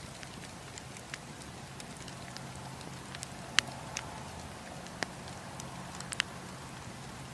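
Wood campfire crackling: irregular sharp pops and snaps from the burning wood over a steady low rush of the fire. The loudest pop comes about three and a half seconds in, with a quick pair near six seconds.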